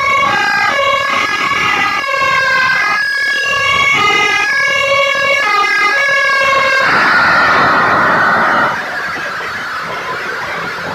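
Fire engine two-tone siren alternating between a high and a low note, cutting off about seven seconds in. A rushing noise follows for about two seconds, then quieter steady traffic noise.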